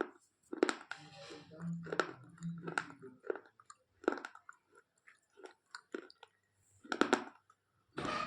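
Slate pencil being bitten and chewed close to the microphone: irregular sharp crunches, clustered in the first three seconds and again around seven seconds in.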